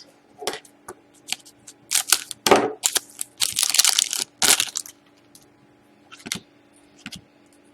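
A pack of Panini Select hockey cards being torn open by hand: the wrapper crackles and crinkles in irregular bursts, loudest from about two to five seconds in, then a few lighter rustles and ticks as the cards are handled.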